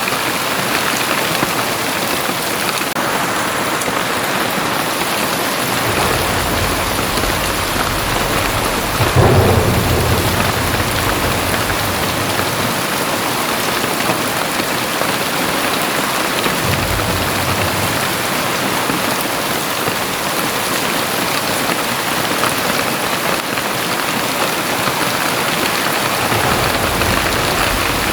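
Very heavy rain pouring steadily, with rolling thunder rumbling underneath: a louder crack about nine seconds in, then a long rumble through the second half.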